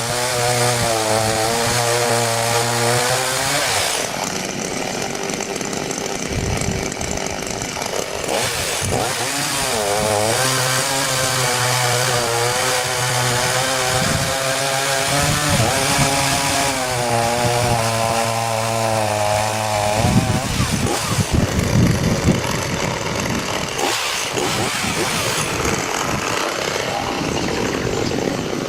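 Small Stihl two-stroke chainsaw running, its engine pitch wavering up and down, with two longer stretches where the steady tone gives way to a harsher, rougher noise.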